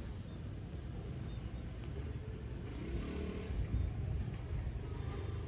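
A motorcycle engine running with a low rumble, revving up about three seconds in.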